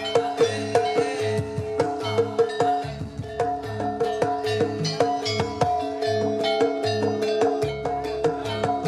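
Live jaranan campursari accompaniment: drums and struck metal percussion play a fast, steady rhythm over held pitched notes, with no singing.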